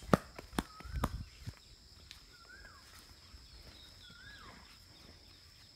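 A few footsteps and thumps on grass in the first second and a half, then a bird repeating a short rising-and-falling whistle about every two seconds over a steady high insect drone.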